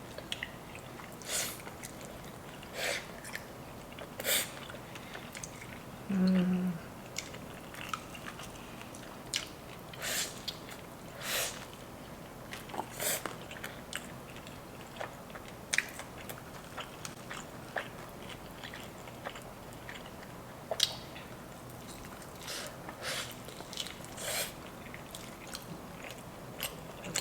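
Close-miked eating: chicken wings wrapped in spicy instant fire noodles being bitten and chewed, with irregular wet mouth clicks and smacks throughout. A short closed-mouth hum about six seconds in.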